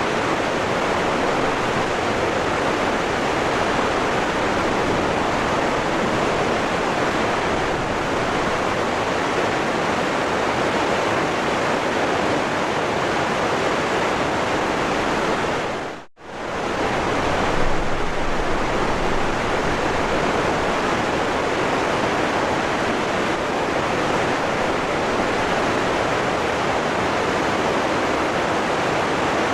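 Waterfall rushing, a steady wash of falling water. About halfway through the sound briefly fades out to almost nothing and comes straight back.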